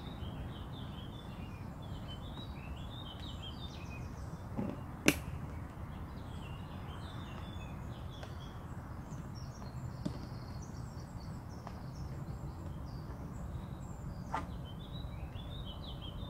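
Small birds chirping and twittering over a steady low rumble, with one sharp click about five seconds in and a few fainter clicks later.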